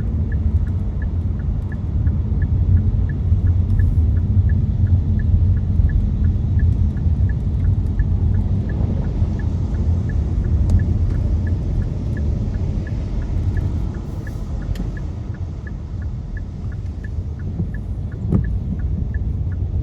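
Steady low road and engine rumble inside a moving car's cabin on a rain-wet city road, with an even light ticking about twice a second. There is a brief knock near the end.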